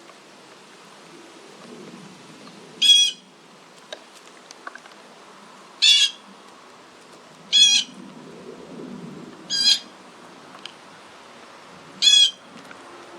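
A bird giving five short, harsh calls, one every two to three seconds, over a low rush of wind.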